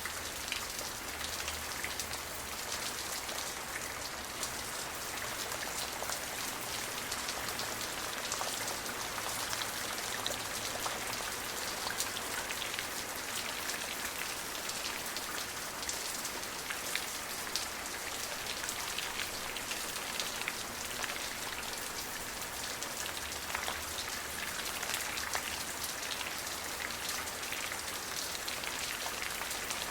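Steady rain falling, a dense even patter of many small drops striking a surface.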